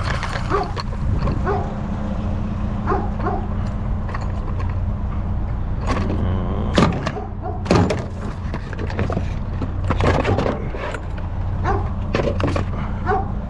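Truck engine running with road noise, heard from inside the cab, with scattered sharp knocks and rattles. The loudest knocks come about seven and eight seconds in.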